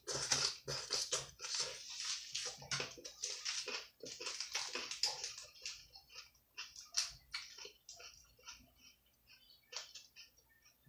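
Close chewing of a mouthful of crisp lettuce salad: dense crunching that thins out about halfway through. After that come a few faint crinkles from a paper receipt being handled.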